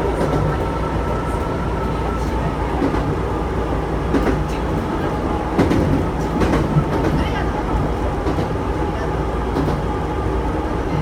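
Chichibu Railway electric train running along the line, heard from inside the front car: a steady low rumble with a thin motor whine, and wheels clicking sharply over rail joints a few times about halfway through.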